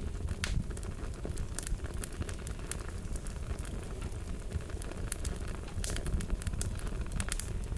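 Wood fire crackling: frequent, irregular sharp pops and snaps over a steady low rumble of the burning fire.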